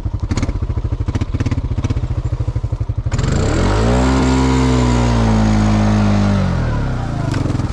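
Honda Rancher ATV's single-cylinder engine chugging at low revs, then about three seconds in revving up hard and holding high revs for a few seconds under load before dropping back to a low chug: the quad pulling itself through in two-wheel drive.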